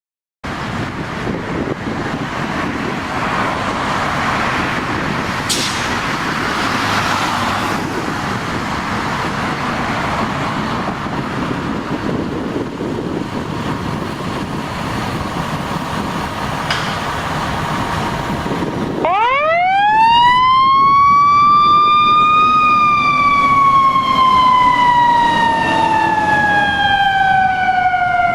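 Fire engine responding: steady road and engine noise for most of the stretch, then about two-thirds through its siren winds up sharply in pitch and then slowly falls away.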